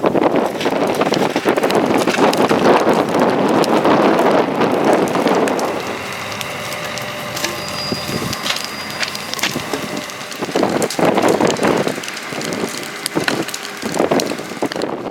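Wooden building debris crunching and crackling under demolition work, dense and loud at first. A quieter stretch follows with a thin steady machine whine, then a few more crunching bursts.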